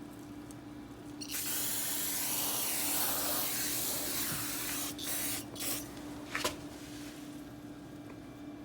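Aerosol insecticide spray can hissing in one long spray of about three and a half seconds, followed by three short squirts.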